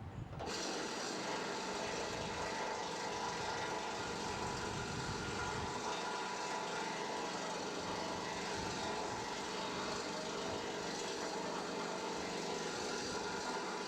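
Diesel-hydraulic locomotive engine running steadily at constant speed, with a steady multi-toned hum.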